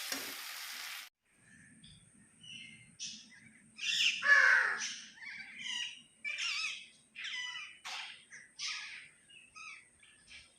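Flock of parrots in a coconut tree giving many short, harsh squawks and chirps, the loudest cluster about four seconds in. A steady hiss runs for the first second and cuts off suddenly.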